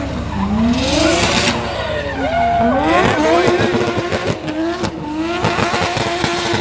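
Nissan Silvia drift car's engine revving hard, its pitch sweeping up and down again and again as the throttle is worked through the slide, with a hiss of spinning tyres on wet tarmac. In the middle the engine breaks into a rapid stutter of pops.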